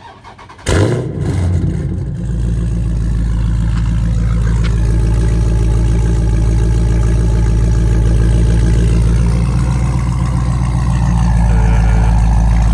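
Dodge Charger Scat Pack's 392 HEMI V8 with a mid-muffler-delete exhaust starting up. The starter cranks briefly, the engine catches with a loud flare under a second in, then settles into a steady fast idle.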